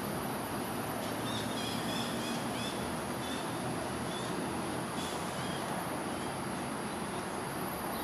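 Steady outdoor background hum with a steady high-pitched hiss, over which a bird twitters a quick run of short chirps from about a second in until past three seconds in, with a few fainter chirps later.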